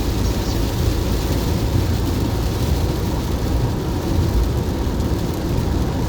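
A steady low rumble with a fainter hiss above it, running without breaks or distinct events.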